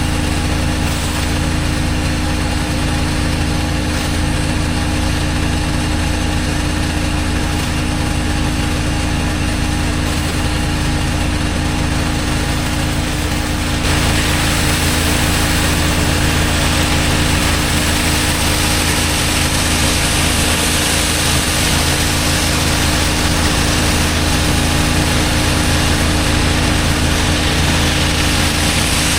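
Pressure washer's engine running steadily, with a steady hiss. About halfway through the hiss and overall level step up, as when water spray starts.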